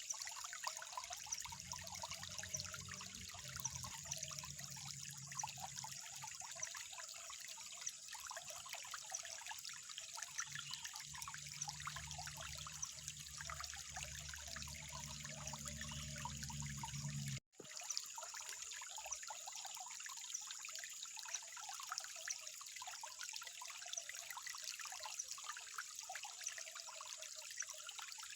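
Water trickling steadily with many small splashes and drips. A low hum runs underneath until a brief drop-out about two-thirds of the way through, after which only the trickling continues.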